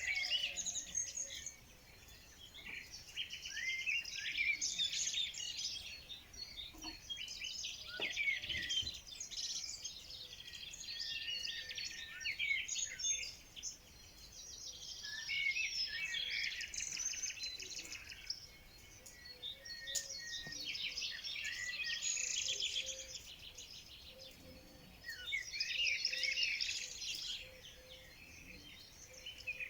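Several small songbirds chirping and singing together in overlapping trills, coming in waves with short quieter lulls between.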